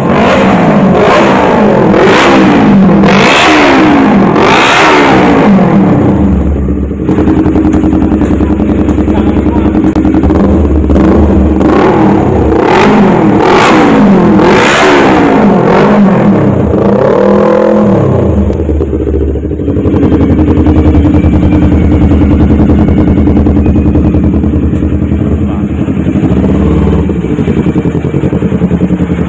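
Kawasaki Ninja 250 with an aftermarket racing exhaust, loud, its engine revved again and again, the pitch sweeping up and down in quick throttle blips. For roughly the last third it runs at a steadier, even pitch.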